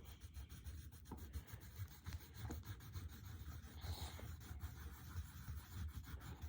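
Faint scratching and rubbing of coloured pencils on paper as a drawing is coloured in, in short irregular strokes.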